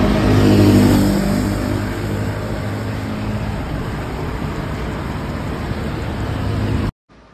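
Hero Xpulse 200 4V's single-cylinder engine running under way, with road and wind rush. It is loudest in the first second, then holds a steady pitch, and it cuts off suddenly near the end.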